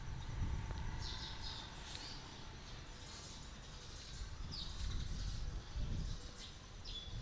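Small birds chirping in short, scattered high calls every second or so, over a steady low rumble.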